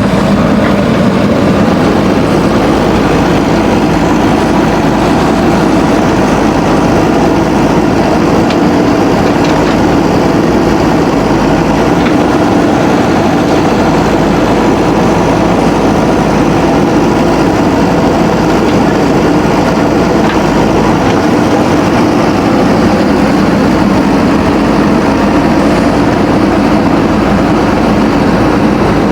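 Backhoe loader's diesel engine running steadily at a constant pitch and level.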